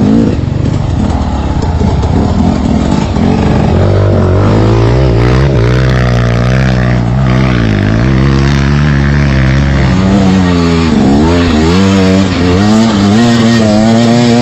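Trail motorcycle engine running loud, its revs rising and falling again and again, with quicker throttle blips in the second half.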